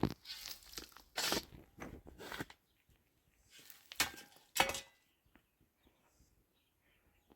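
Crunching footsteps on dry ground, about six steps, the loudest near the end, stopping about five seconds in; after that only faint small rustles.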